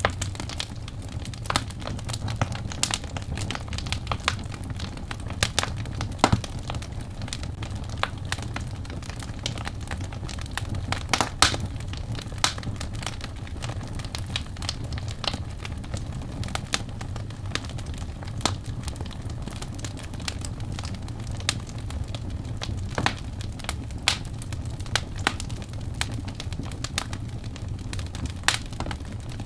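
Wood fire burning in a fireplace: logs crackling with irregular sharp pops, a few louder ones, over the steady low rush of the flames.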